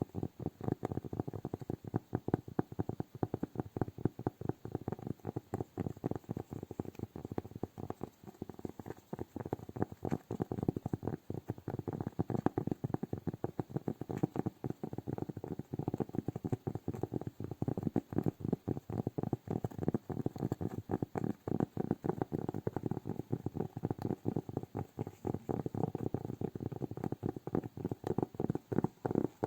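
Hands making rapid, soft tapping and rubbing sounds, many little clicks a second with no pause.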